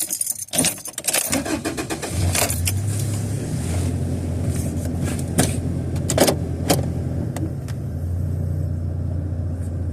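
Keys jangling, then a 1999 Toyota Tacoma's engine starting about a second in and running steadily, with a few sharp clicks over it.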